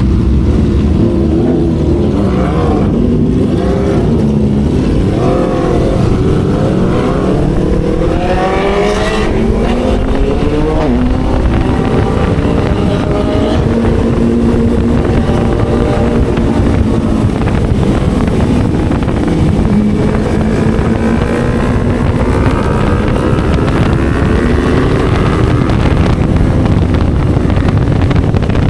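Motorcycle engine and exhaust under way, revving up and down several times with quick rising sweeps in pitch over the first ten seconds, then pulling at a steadier pitch that climbs slowly toward the end.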